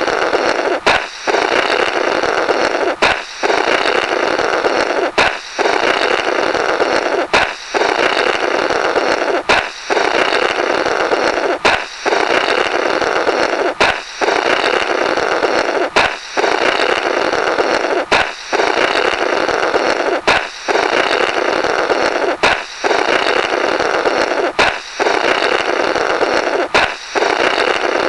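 Comedy "blorrrt" balloon sound effect on a loop: a balloon pops with a sharp crack, then someone blows noisily through the burst rubber remnants, the cycle repeating about every two seconds.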